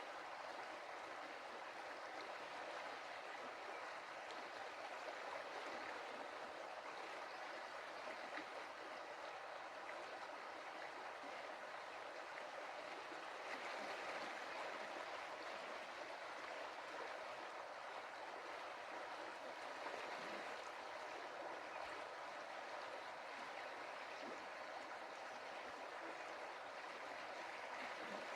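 Stream water running and splashing over stones, a steady rushing babble.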